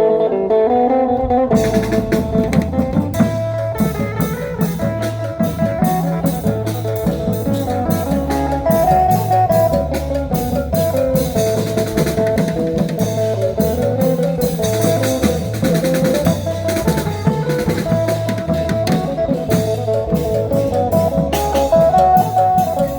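Band music with drum kit, bass and a plucked lead melody playing to a steady beat. The full band comes in about a second and a half in.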